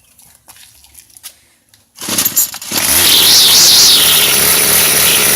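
Gas string trimmer (weed wacker) engine starts suddenly about two seconds in and keeps running loudly, its revs rising and falling a few times; it is running on gasoline vapor drawn from a bottle, with its own fuel tank empty.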